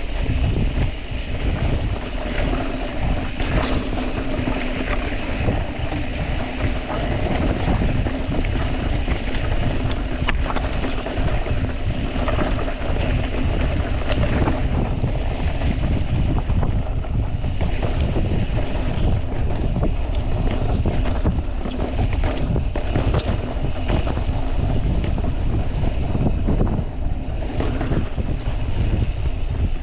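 Mountain bike riding down a rough rocky trail: wind rushing over the microphone with tyres rolling and the bike rattling, broken by frequent short knocks over rocks.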